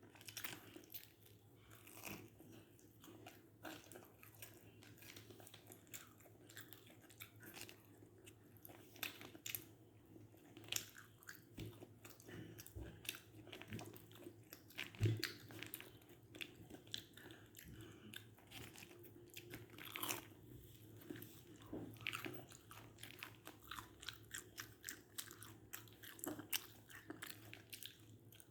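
A person chewing and biting into a crispy corn dog close to the microphone: many short, quiet crunches between softer chewing sounds.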